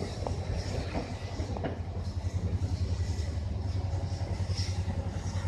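Train running slowly along the track: a steady low rumble with a few sharp clicks in the first two seconds, growing a little louder about two seconds in.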